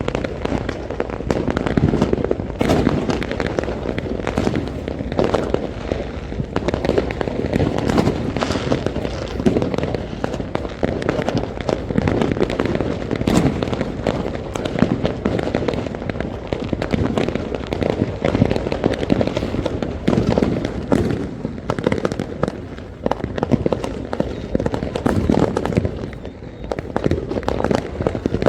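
Fireworks going off without a break: a dense, continuous run of bangs and crackling, many shots a second over a steady low rumble.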